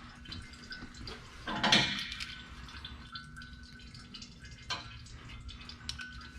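Engine oil dripping into a drain pan during an oil change, many small irregular drips, with one louder brief noise about a second and a half in.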